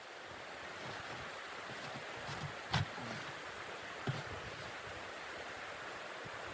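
Steady rushing blizzard wind, with two short sharp knocks, one a little under three seconds in and one about four seconds in.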